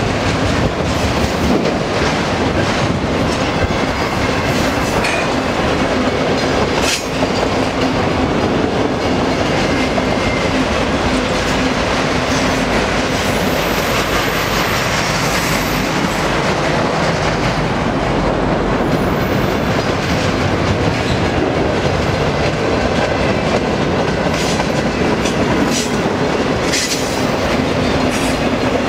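Autorack freight cars rolling past at close range: a loud, steady rumble of steel wheels on rail, with the wheels clacking over rail joints.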